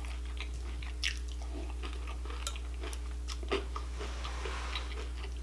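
Close-miked mouth chewing a mouthful of Honey Bunches of Oats cereal in milk: scattered soft crunches and wet clicks, over a steady low hum.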